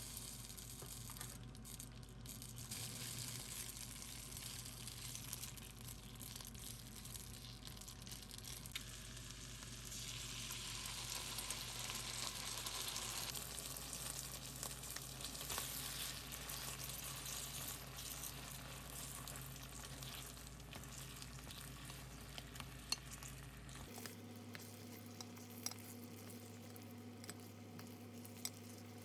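Food sizzling in a frying pan, a steady hiss that changes about halfway through and again near the end, with a few light clicks in the last part.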